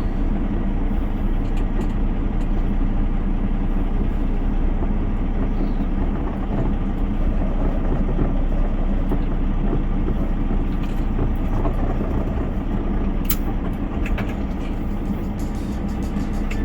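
Semi truck's diesel engine running at low revs, a steady low drone, as the rig is backed in off the street.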